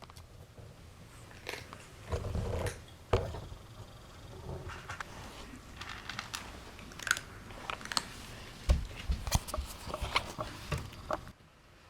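A cat chewing and crunching food, heard up close as irregular crisp clicks, with a few heavier thumps.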